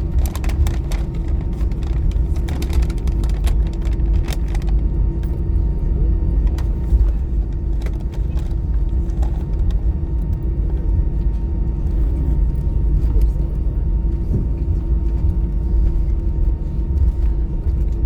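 Airbus A320 cabin noise after landing: a steady low rumble with a constant hum. Light rattling clicks come in the first few seconds.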